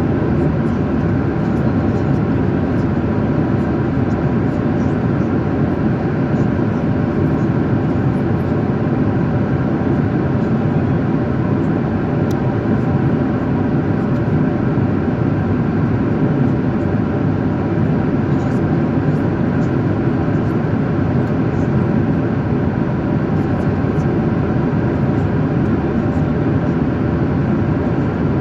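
Airliner cabin noise in flight: a steady rush of engine and airflow noise heard from inside the passenger cabin, unchanging throughout.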